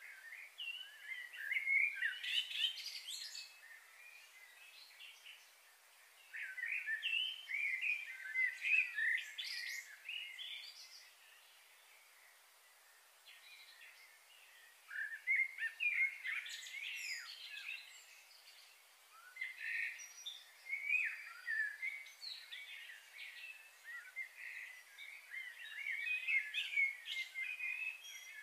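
Birds chirping and chattering in about five spells of a few seconds each, with quieter pauses between them.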